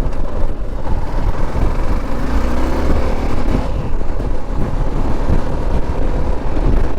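A motor vehicle's engine running over steady low rumble and road noise, with its engine note rising and then falling about two to three and a half seconds in.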